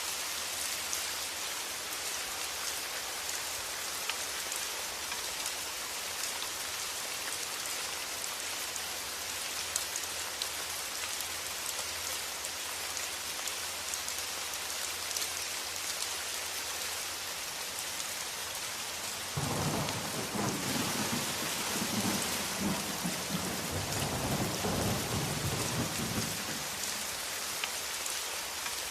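Steady rain falling, with a low rumble of thunder rolling in about two-thirds of the way through and lasting several seconds before fading.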